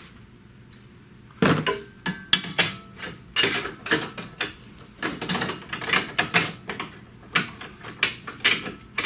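Metal hand tools clinking and knocking against metal in a quick, irregular run of sharp clanks, some briefly ringing, starting about a second and a half in.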